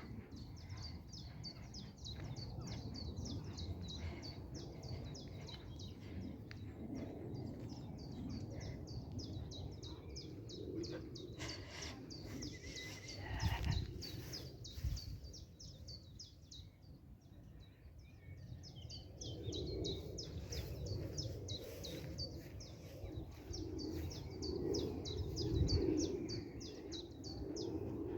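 Small birds chirping outdoors: a rapid, evenly repeated series of high chirps that keeps going except for a brief pause around the middle. Underneath is a low outdoor rumble, with a couple of louder low thumps.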